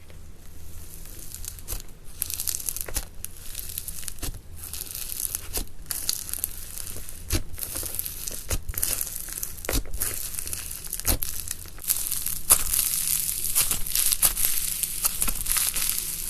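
Slime being squeezed and worked close to the microphone: a steady crinkling crackle with many small, irregular sharp pops, getting louder about three-quarters of the way through.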